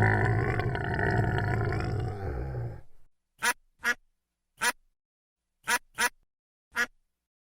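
A pig grunts in one long, low, rasping stretch that stops about three seconds in. Then a duck quacks six times in short, separate quacks with gaps of silence between them.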